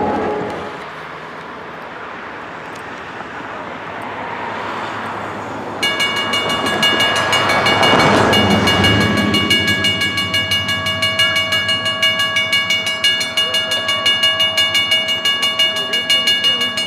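A steam locomotive's chime whistle cuts off just after the start, leaving the rumble of the passing train. About six seconds in, a bell starts ringing steadily, about two strokes a second.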